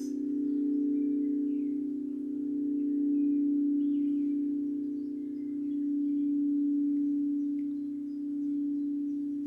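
Tibetan singing bowl ringing with a sustained low hum and a few overtones, its loudness swelling and fading in slow waves.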